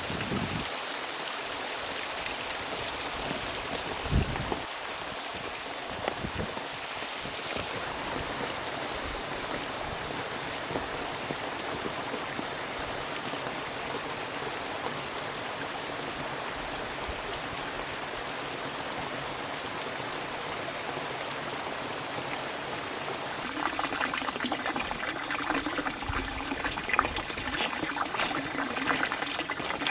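Running water, a steady rushing flow like a stream. A few dull thumps come in the first several seconds, and near the end a busier crackling and clicking joins the flow.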